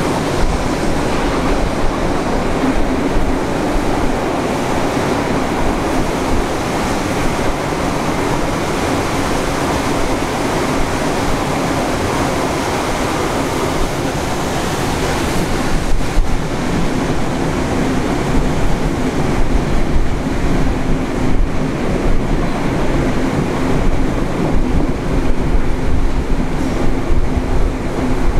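Steam-hauled passenger train under way, heard on board: a steady rush of wheels and track with wind noise and a low hum, growing a little louder and rougher about halfway through.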